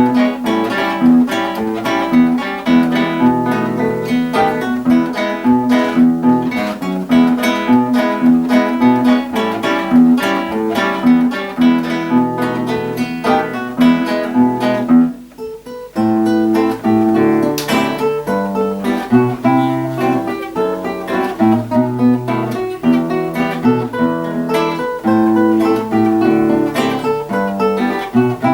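Two acoustic guitars playing a duet, plucked notes in a steady rhythm; about halfway through the playing thins out for a moment before picking up again.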